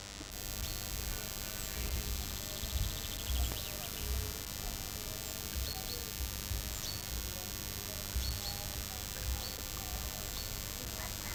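Small birds chirping in short high calls, with a rapid falling trill about a second in, over irregular low thumps and a steady hiss on a camcorder microphone.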